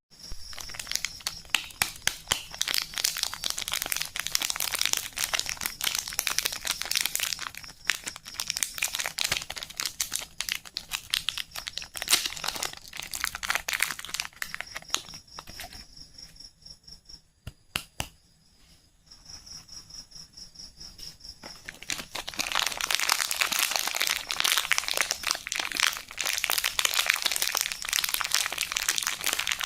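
Soap packaging crinkling and tearing as it is unwrapped by hand, with a quieter stretch around the middle broken by a few sharp clicks before the crinkling picks up again.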